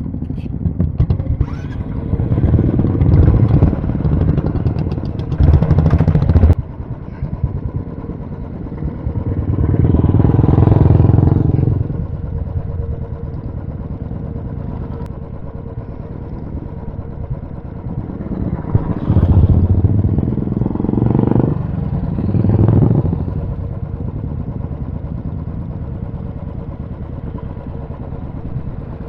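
Royal Enfield motorcycles running in a group, several engines swelling loud in turn as bikes ride past, over a steady rumble of engines. The first loud stretch cuts off abruptly.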